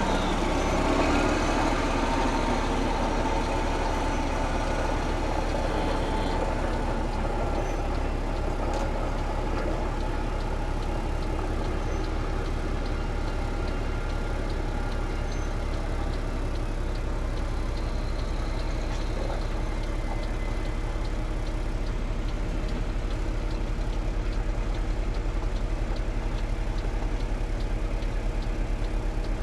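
Heavy truck engine running steadily, a continuous low drone.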